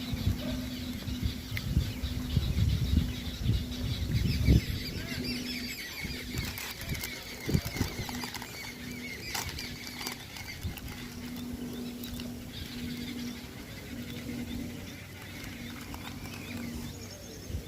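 Small birds chirping and twittering, busiest midway, over low rumbles and thumps in the first few seconds and a low hum that comes and goes.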